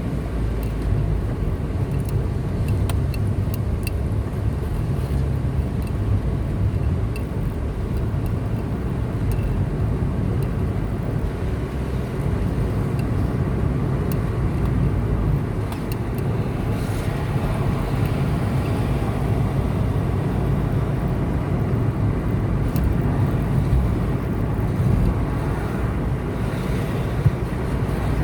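A car driving along a highway: steady engine and tyre rumble with road noise, and a louder hiss swelling up about 17 seconds in.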